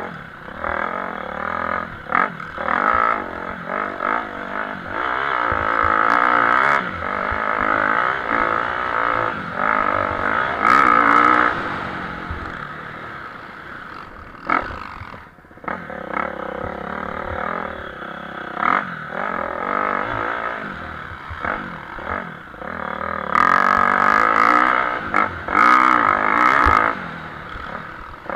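Motocross bike engines racing on a track, revving up and down through the gears as riders accelerate and brake. Louder stretches come around the middle and again near the end, with a brief lull in between.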